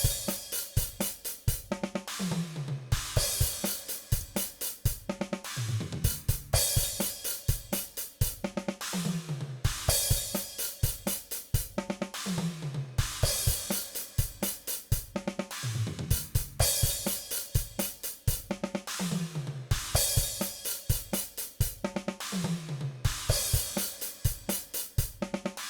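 Virtual drum kit (DrumGizmo) played back through the overhead microphone tracks: a steady rock beat of kick, snare, hi-hat and cymbals, with tom fills falling in pitch about every three seconds, the snare and toms carried into the overheads as simulated mic bleed.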